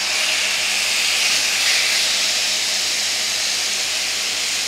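Yogurt-marinated chicken pieces sizzling steadily in a hot non-stick frying pan, a even hiss as the marinade hits the pan.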